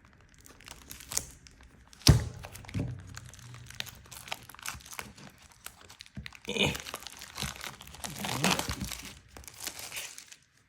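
Plastic wrapping crinkling and tearing as a sealed card booster box is unwrapped and opened, with scattered clicks and one sharp knock about two seconds in.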